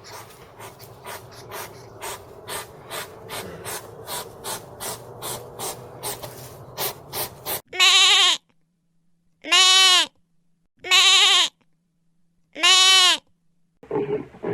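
An animal calls four times, loud and pitched, each call under a second long with its pitch arching up and down, about a second and a half apart. Before the calls comes a run of sharp clicks that grow faster.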